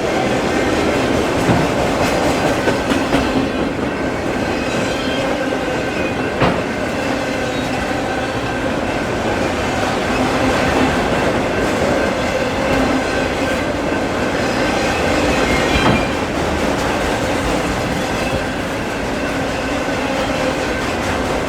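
Freight train rolling past: a steady rumble of steel wheels on rail, with a few sharp clacks over rail joints scattered through it.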